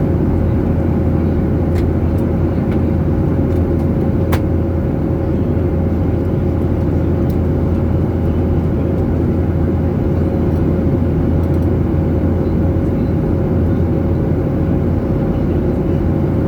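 Steady drone of a jet airliner heard from inside the cabin: a deep, even rumble of engines and airflow with a thin steady hum over it, unchanging throughout, with a few faint clicks.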